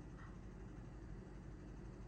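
Quiet background: a faint steady hiss over a low hum, with no distinct sound standing out.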